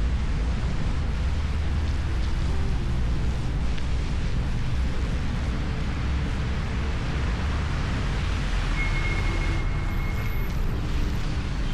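Wind rushing over the microphone of a camera mounted on a moving electric unicycle, a steady heavy low rumble with road noise underneath. About nine seconds in, a short steady high tone sounds for a second or so.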